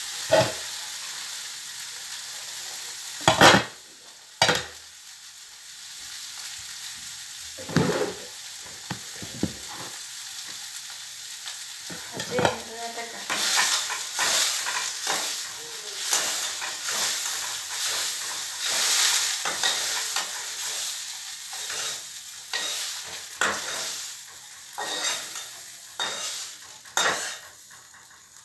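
Soya chunks frying in oil in a pan: a steady sizzle, with the utensil scraping and knocking against the pan as they are stirred. There are two louder knocks about three and four and a half seconds in.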